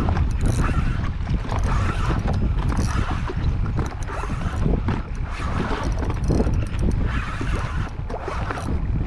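Wind buffeting the microphone, with sea water slapping against a drifting jet ski.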